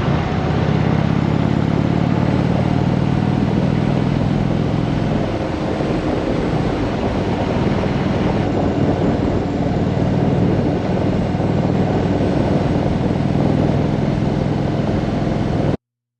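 Indian motorcycle's V-twin engine running steadily under a constant rush of noise, its note wavering slightly in pitch, then cutting off suddenly near the end.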